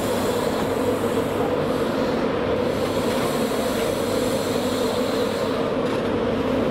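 LNER passenger train moving past along the platform, a steady rumble of the coaches with a continuous hum.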